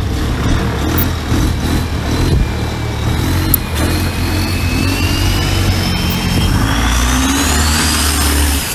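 Common-rail turbo diesel engine of a Thai longtail racing boat running hard, with a deep steady rumble. A high whine climbs in pitch over several seconds as it builds revs, then drops off right at the end.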